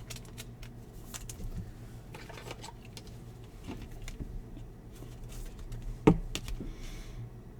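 Soft clicks and light rustling of baseball trading cards being handled and flipped through, with one sharper click about six seconds in.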